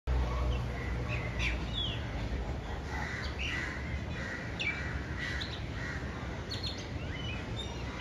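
Bird singing: a varied run of short whistled and chirping notes, with several quick downward-sweeping notes among them. A low rumble sits underneath, strongest in the first couple of seconds.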